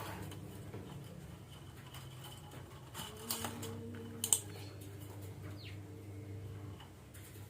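Parakeet giving a few short, sharp squawks and clicks, the loudest a little past four seconds, and one faint falling call, over a steady low hum.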